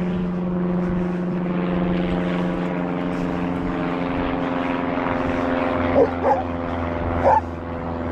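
Propeller aircraft engine droning steadily. Near the end, three short high-pitched squeaky sounds cut in over it.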